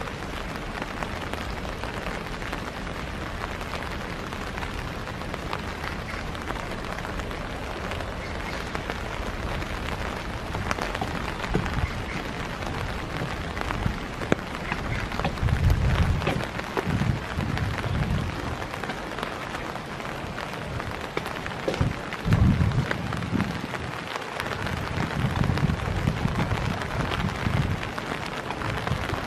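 Steady rain pattering on a boardwalk and dry leaves, an even hiss throughout. Several bursts of low rumble come in the second half, the loudest moments.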